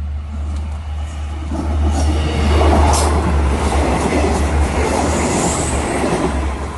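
Special express diesel railcar train passing close by: a rushing noise of wheels and engines that builds about a second and a half in and is loudest around three seconds in. Clicks of the wheels run through it, over a steady low rumble.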